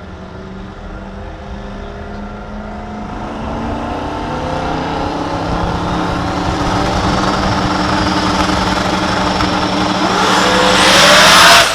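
Drag-racing car engine running and growing steadily louder, then revving hard near the end with a loud rush of noise and the engine pitch sweeping up and down.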